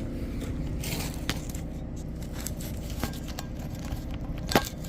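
Scraping and clicking of tools and metal parts being handled and moved about, with one sharper knock near the end, over a steady low hum.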